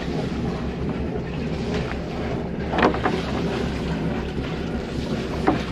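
Motor yacht engines idling with a steady low drone, with wind on the microphone. Two brief squeaky sounds stand out, about three seconds in and near the end.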